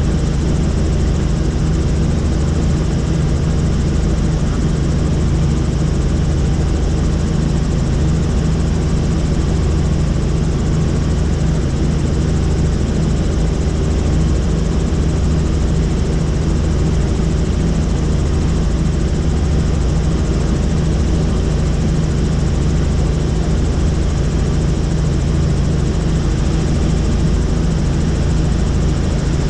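Helicopter in flight: steady engine and rotor noise at a constant loud level, with a steady low drone underneath.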